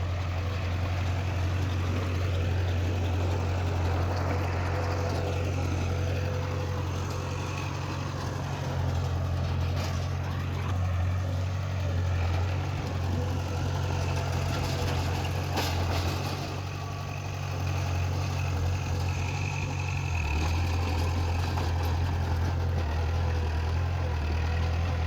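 Heavy diesel engine of earthmoving machinery running steadily, with two sharp clanks about ten and sixteen seconds in.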